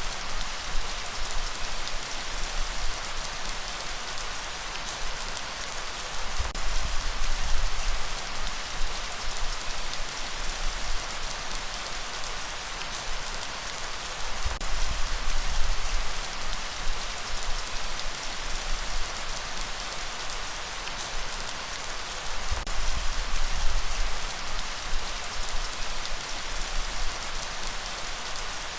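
Steady rain falling, a dense even hiss of drops on surfaces, with a low rumble underneath that swells and fades about every eight seconds.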